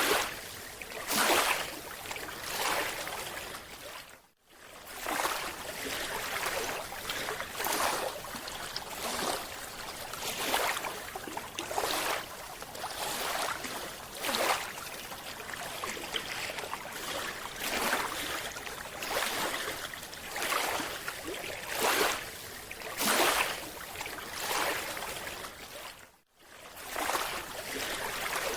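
Water sound picked up by an underwater camera: irregular rushes of hissing, bubbling water every second or two. The sound drops out abruptly twice, about four seconds in and near the end.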